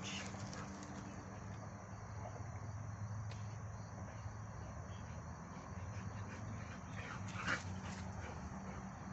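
Dogs playing, with a short high-pitched dog cry about seven and a half seconds in and a fainter one at the start, over a steady low hum.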